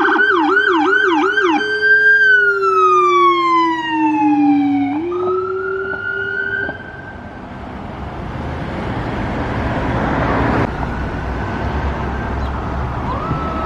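Electronic emergency siren on a responding fire department vehicle: fast yelp sweeps, then a slow falling wail, a brief rise that cuts off, and vehicle noise growing as it passes. The siren tone rises again near the end.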